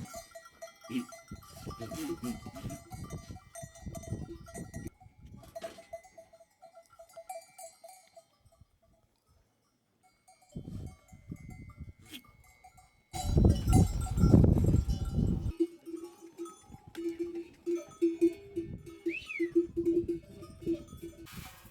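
Bells on a flock of sheep clanking unevenly as the animals move. About halfway through, a louder rough noise lasts a couple of seconds, and near the end a lower-pitched bell rings repeatedly.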